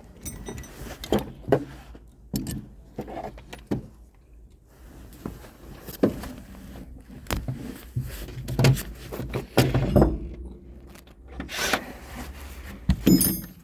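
Irregular metallic clinks, knocks and jingles of hand tools, a socket and loose metal parts during unbolting and removal of a car's rear shock absorber.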